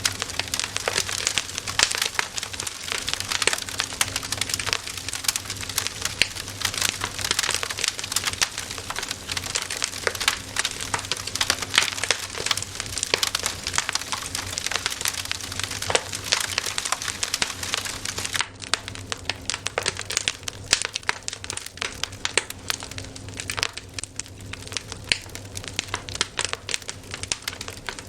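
Campfire crackling: a dense, continuous stream of sharp pops and snaps from burning wood, thinning out somewhat about two-thirds of the way through.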